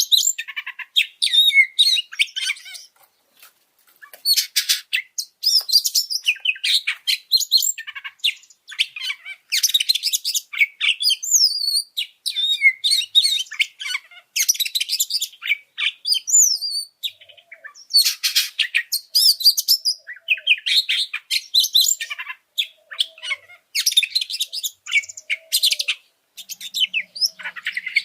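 Oriental magpie-robin (kacer) singing a fast, varied song of rising and falling whistled notes and chattering phrases in quick bursts with short pauses: the agitated, high-spirited singing of a fired-up bird.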